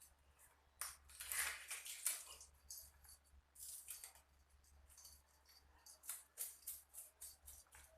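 Knife scraping and cutting at a fish in short, irregular, raspy strokes, coming in clusters.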